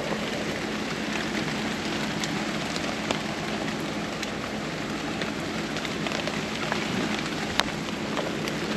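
Water from a center-pivot irrigation system's sprinklers pattering steadily onto corn leaves and ground like rain, with scattered faint ticks of droplets and a steady low hum underneath.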